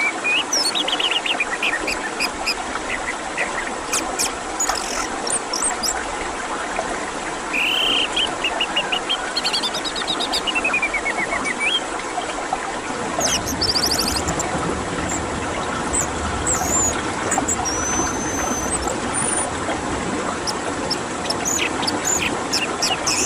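Songbird singing in varied phrases of whistles, trills and quick repeated notes, over a steady rush of running water that grows fuller about halfway through.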